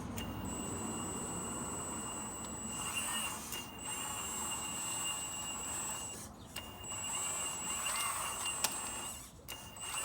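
Hydraulic pump and electric motor of a MAGOM HRC 330D CAT radio-controlled excavator, giving a high steady whine that starts and stops four times as the controls are worked.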